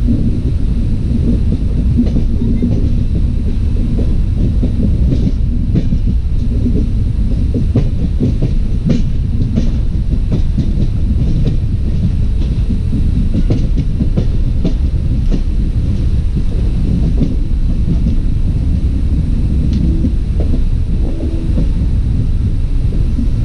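Passenger train running at speed, heard from beside a sleeper coach: a steady, loud rumble of steel wheels on rails with a dense, irregular clatter of clicks.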